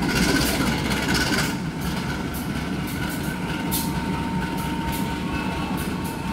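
Passenger train cars rolling along the rails with a steady rumble and irregular wheel clicks, and a faint thin whine partway through.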